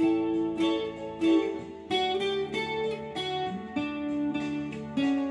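Acoustic guitar playing a slow melody picked note by note, each note ringing and fading, over lower bass notes.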